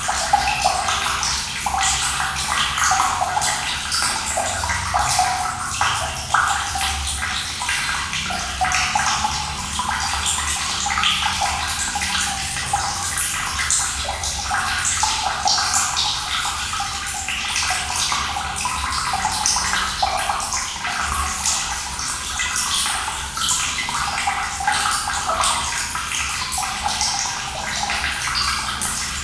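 Running water pouring and splashing steadily, with a dense spattering hiss and a low rumble underneath.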